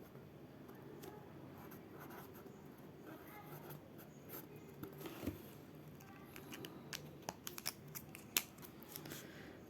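Faint scratching of someone writing, with a few sharp clicks in the second half.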